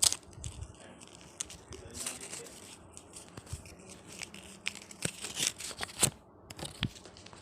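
A paper store receipt being crinkled and worked in the hands, giving irregular sharp crackles and papery rustles, with the loudest snaps just after the start and about five and six seconds in.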